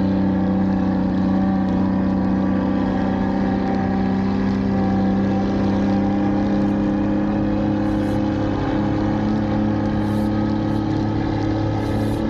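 Heavy snow-removal machinery with its diesel engine running steadily at a constant pitch. A few brief high hisses come in the second half.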